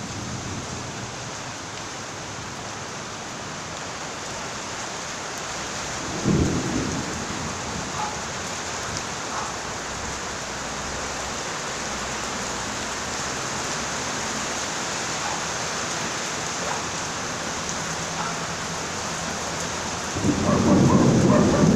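Steady rain falling, an even hiss throughout. A short low thump comes about six seconds in, and a louder low rumble starts near the end.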